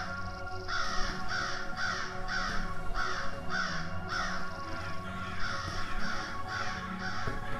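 Crows cawing in a quick, even run of calls, about two a second, over a steady held music drone.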